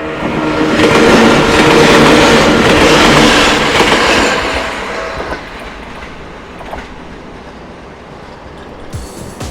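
A Sangi Line electric train passing over a level crossing: wheels clattering on the rails, building to loud from about one second in and fading after about four and a half seconds. The crossing alarm's tones ring under it until about halfway.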